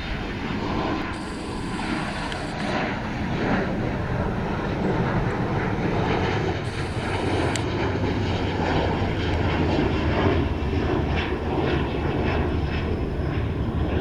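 Jet airliner engines rumbling loudly as a plane passes close by, building over the first few seconds and then holding steady.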